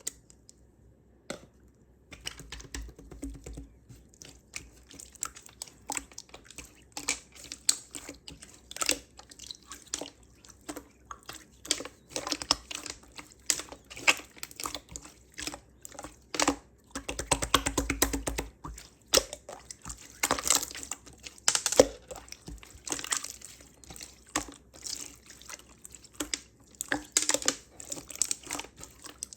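Clear slime squished and pressed by hand, giving an irregular run of sticky clicks and short wet pops as air bubbles work into it, starting about two seconds in.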